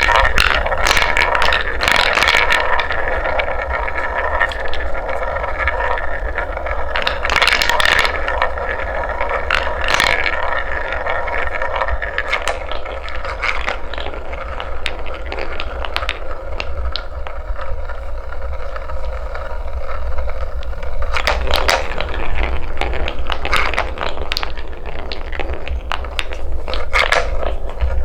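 Wooden balls rolling and rattling along a wooden marble-run track, with a rolling rumble and many sharp clacks as they knock against the track and each other. A steady low hum runs underneath.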